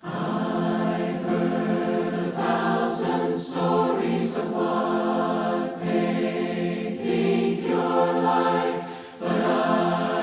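A group of voices singing a hymn a cappella in several parts, starting suddenly out of silence, with a short break between phrases about nine seconds in.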